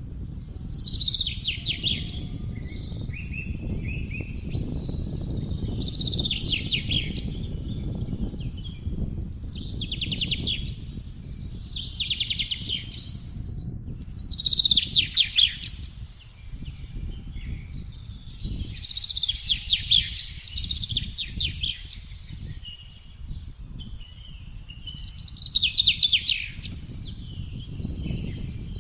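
A songbird singing short, rapid trilled phrases, one every two to three seconds, over a steady low rush of wind.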